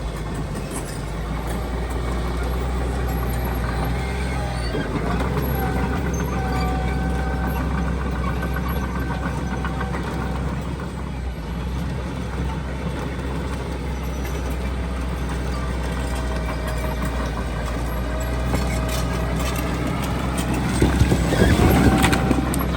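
Heavy diesel earthmoving machinery, dump trucks and a bulldozer, running steadily with a low engine drone. There is a louder burst of noise near the end.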